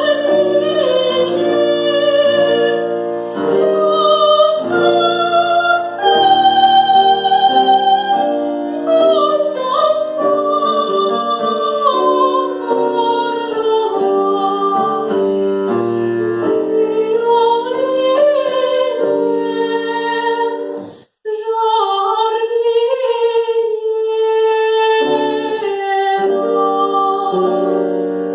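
A woman singing in classical operatic style with piano accompaniment, in long held notes. The music breaks off for a moment about three quarters of the way through, then resumes.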